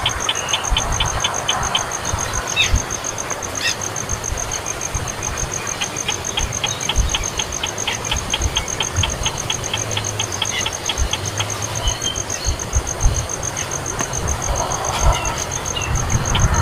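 A baby bird's rapid begging chirps, short and high, about five a second, in two runs. Under them run a steady high-pitched trill and an uneven low rumble.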